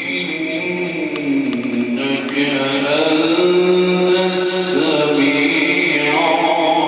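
Quran recitation: a single reciter chanting in a melodic, ornamented style, holding long notes that slide up and down in pitch.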